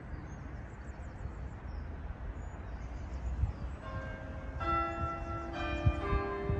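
Church bells start ringing about four seconds in, strike after strike of long ringing tones, over wind rumble on the microphone and faint birdsong.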